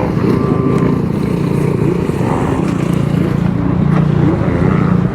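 Steady drone of a vehicle's engine and road noise, holding an even pitch throughout, as heard from inside a moving car.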